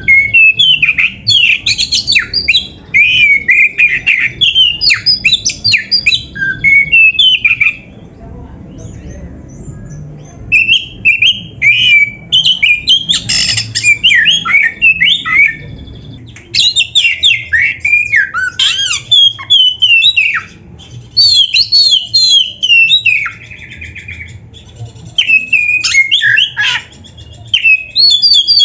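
Oriental magpie-robin (kacer) singing a long, varied song: phrases of quick notes sliding up and down in pitch, each a few seconds long, with short pauses between them and a longer pause about eight seconds in.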